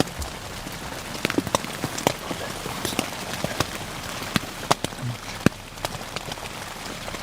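Irregular patter of water drops tapping on a tent's fabric, scattered sharp ticks at uneven intervals over a steady hiss.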